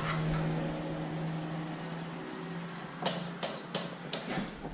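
A steady mechanical hum that fades away over about two seconds, followed by several light sharp clicks.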